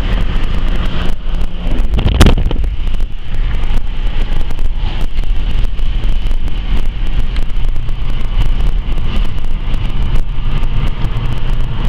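Steady wind and road rumble from a car in motion, with wind buffeting the microphone. One sharp knock about two seconds in.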